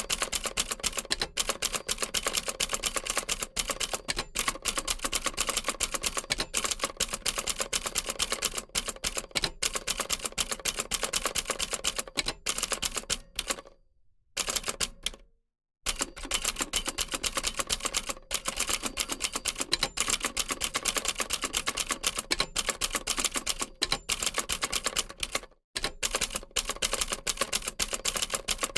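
Old typewriter being typed on: a quick, uneven run of keys striking, broken by a short pause of about two seconds near the middle.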